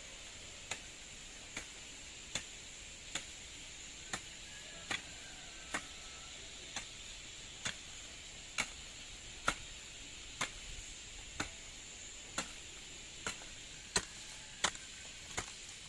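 Steady chopping strikes of a hand tool into ground or vegetation, about one a second, as garden land is cleared, over a faint steady high-pitched hiss.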